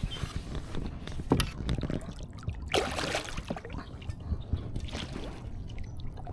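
Water sloshing and splashing around a kayak during a fish fight, with scattered light knocks and clicks and a brief burst of splashing about three seconds in.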